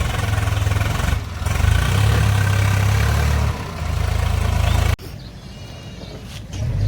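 Heavy vehicle engine running with a steady low pulse. It cuts off abruptly about five seconds in, leaving a quieter engine sound that swells again near the end.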